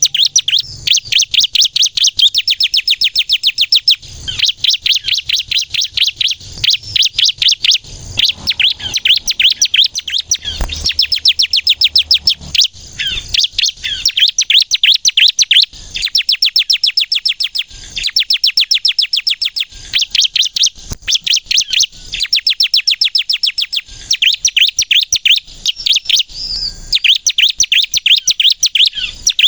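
Bar-winged prinia (ciblek kristal) singing hard in fast, high-pitched rattling bursts. Each burst is a rapid run of sharp repeated notes lasting a second or two, with short breaks between them, over and over.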